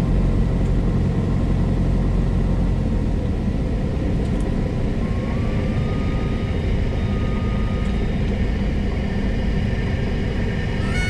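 Steady cabin noise of a Cessna 172S Skyhawk landing: the engine's low rumble and airflow. A faint thin tone rises and holds briefly about five seconds in.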